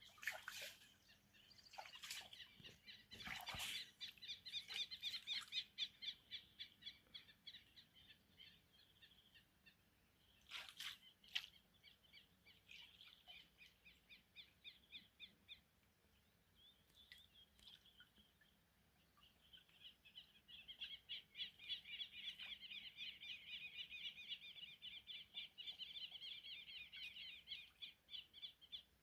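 Faint, rapid chirping trills: long runs of quick, evenly repeated high chirps that stop and start again several times. There are a few sharp knocks near the start and about eleven seconds in.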